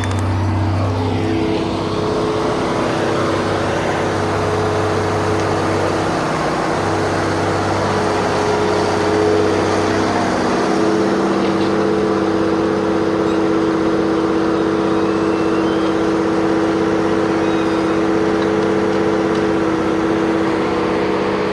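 An engine running steadily, its tone shifting a couple of times.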